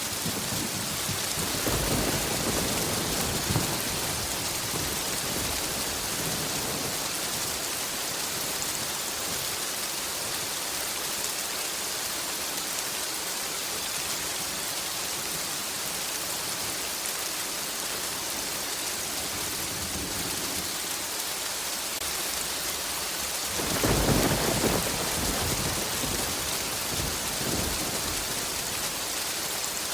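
Steady heavy rain hissing, with thunder rumbling low twice: a rumble about two seconds in and a louder one near 24 seconds.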